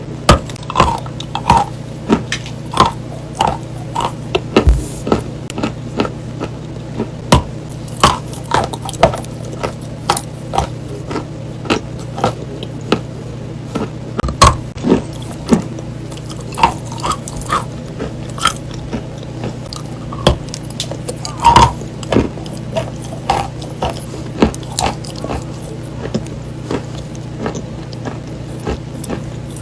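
Close-up biting and chewing of dry chalk: sharp, irregular crunches, roughly one or two a second, over a steady low hum.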